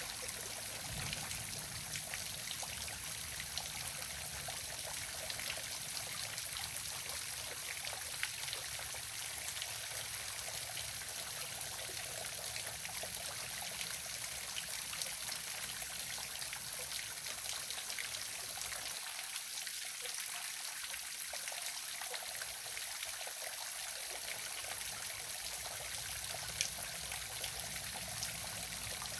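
Waterfall: water falling and splashing in a steady hiss, with small splashes ticking through it. A faint low rumble underneath drops away for a few seconds past the middle.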